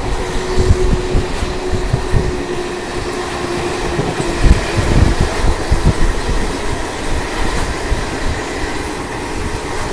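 A Garib Rath Express coach running at speed, heard from its open doorway: the rush and rumble of wheels on rail, with irregular gusts of wind striking the microphone. A steady hum runs under it and stops about halfway through.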